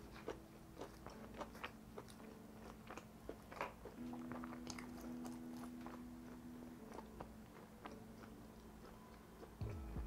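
Close-miked chewing of brick-oven pizza: soft crunches and mouth clicks at an irregular pace.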